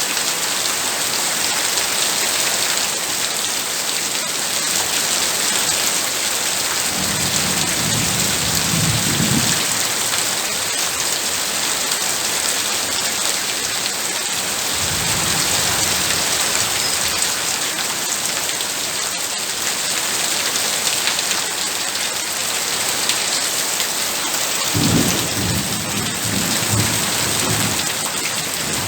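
Heavy rain falling in a steady dense hiss, with low rumbles of thunder about a quarter of the way in, around the middle, and again near the end.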